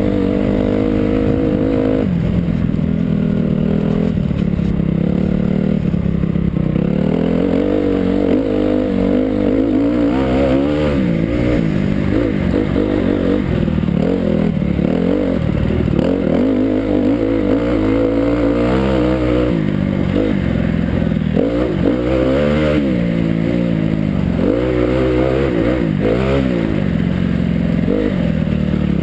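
Motocross bike engine running hard, its pitch rising and falling again and again as the throttle is opened and closed around the track.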